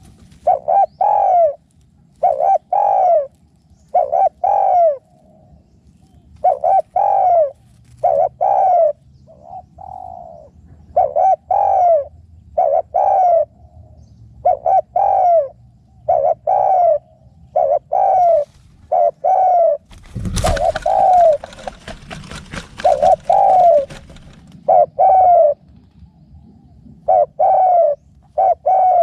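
Spotted dove cooing over and over, short arching coos in groups of two or three. About twenty seconds in, a loud burst of noise cuts in and fades over a few seconds.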